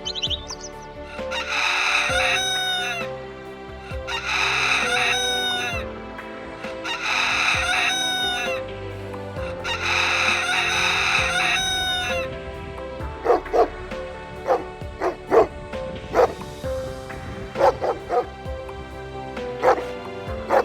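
A rooster crowing four times in a row, each crow about two seconds long and ending in a falling note, then chickens clucking in short, quick calls through the second half. Background music plays under it.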